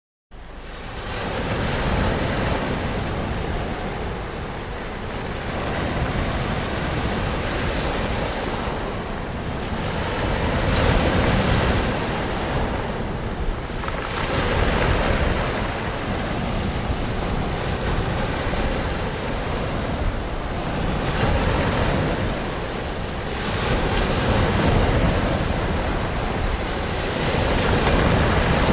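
Ocean surf: waves washing in continuously, swelling and easing every few seconds. The sound cuts in abruptly right at the start after a moment of silence.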